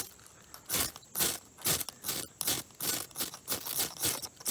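A striker scraped again and again along a ferrocerium fire-starter rod, two or three quick, sharp scrapes a second, throwing sparks onto tinder to light a fire.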